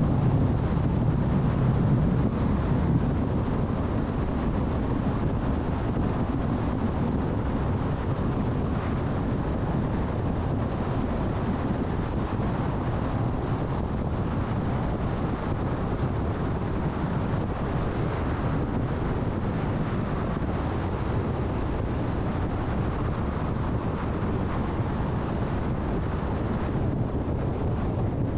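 Car driving at freeway speed: a steady rush of tyre and wind noise, a little louder for the first few seconds.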